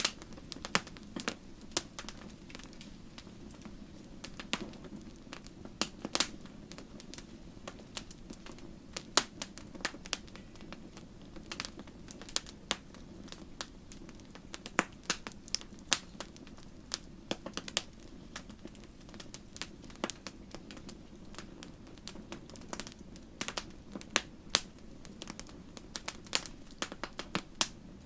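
Campfire crackling: burning wood giving irregular sharp pops and snaps, several a second, some much louder than others, over a steady low rush of the flames.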